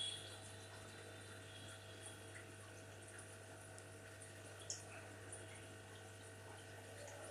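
Aquarium water trickling faintly over a steady low hum from the tank's pump or filter, with one small click a little past halfway.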